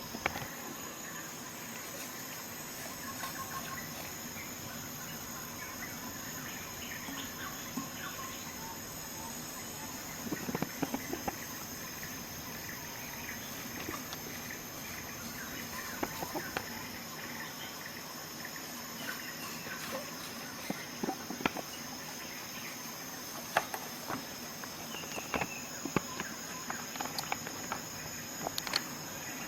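Steady high-pitched chirring of crickets, with scattered small clicks and taps that come more often in the second half.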